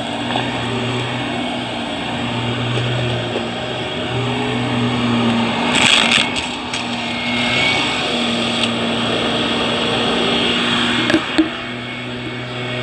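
Vacuum cleaner running steadily, with a brief louder rush about six seconds in and two sharp knocks near the end.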